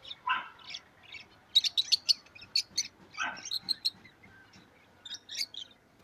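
Caged cockatiels and other small birds chirping in quick, short, high calls, thickest in a run a second and a half in, with two lower, harsher calls, one just after the start and one about three seconds in.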